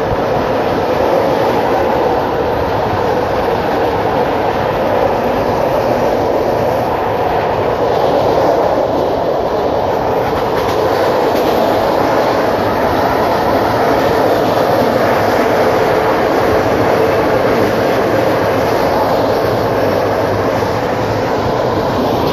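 Steady running noise of a moving passenger train heard from inside the carriage: wheels on the rails and the rattle of the coach, unbroken and even in level.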